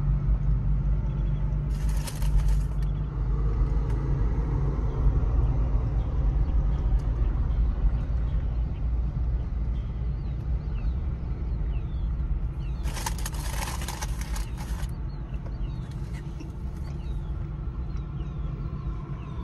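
Steady low rumble of an idling motor vehicle, with two short bursts of hiss-like noise, one near the start and a longer one about two-thirds of the way through.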